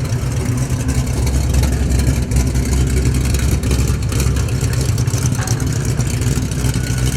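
A loud car engine running with a deep, steady low rumble, held at a constant pitch without clear revving.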